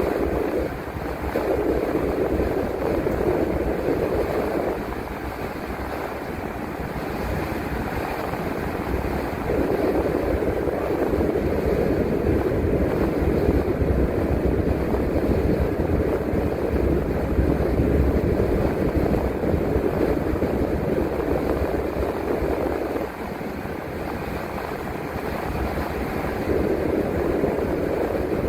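Bus driving: steady engine and road noise heard from the driver's seat, easing off for a few seconds around five seconds in and again past twenty seconds in, then building back up.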